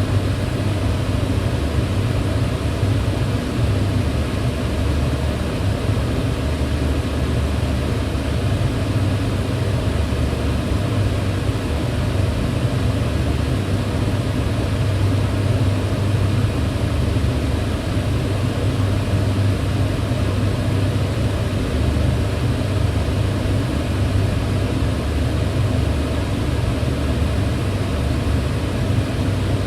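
Kitchen range hood running steadily: a low fan hum under an even rush of air, with no change in level.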